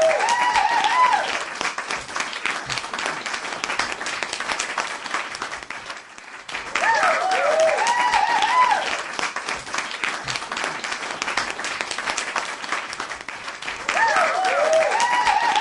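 Crowd clapping steadily, with whooping cheers at the start, about halfway through and again near the end, each burst of whoops the same shape.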